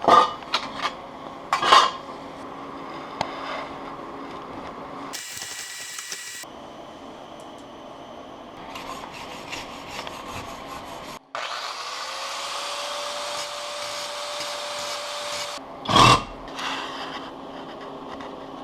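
Metalwork on a lawn mower's cutting-height adjuster arm: sharp clanks of metal parts and tools a few times, with stretches of rasping and a steady hiss in between.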